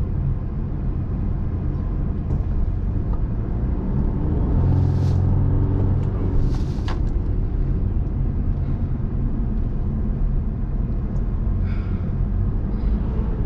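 Steady road and engine rumble heard inside a moving car on the highway, swelling a little about four to six seconds in. Two brief whooshes come about five and seven seconds in.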